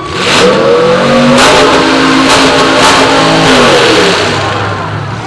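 Demolition derby car's engine revving hard: it rises about half a second in, holds at high revs, then falls away after about four seconds.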